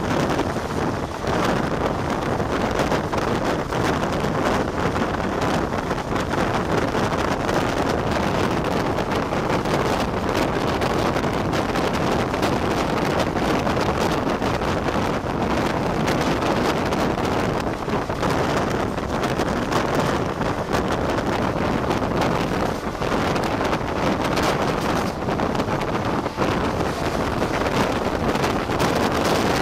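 Indian Railways express train running at speed: steady wheel-on-rail rumble and clatter, heavily mixed with wind buffeting the microphone held outside the coach.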